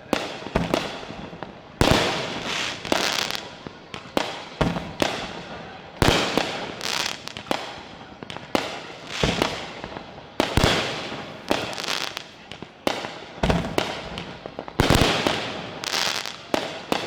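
Fireworks going off all around: sharp bangs every second or so at irregular intervals, each trailing off in an echo.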